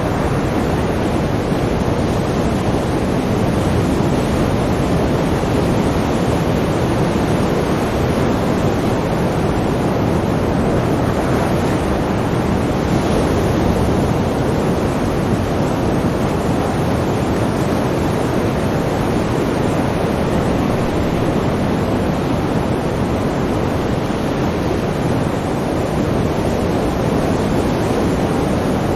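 Sea surf: a steady, continuous wash of waves with no single breaking crash standing out.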